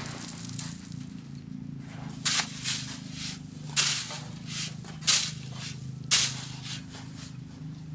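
Shovelfuls of sand being thrown through a sifting screen, each landing as a short gritty rush, about six in all at irregular intervals of roughly a second. A steady low engine hum runs underneath.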